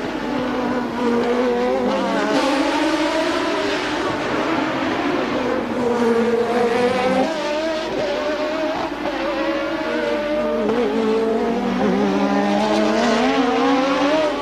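Engine of a 1988 Formula One car at racing speed, revs rising and falling throughout, with deeper dips about halfway and again near the end before climbing again.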